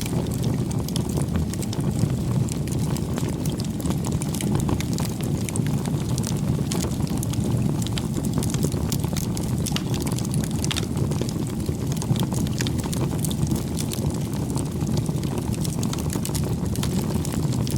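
Wood campfire burning: a steady low rush of flames with frequent small, irregular crackles and pops.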